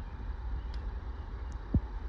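Kawasaki Ninja 400 parallel-twin engine idling through its stock exhaust, a steady low rumble, with a single short thump near the end.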